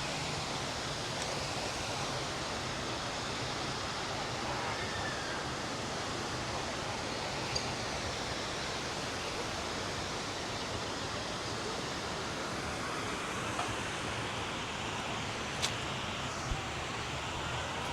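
River water rushing steadily, with a few faint clicks over it.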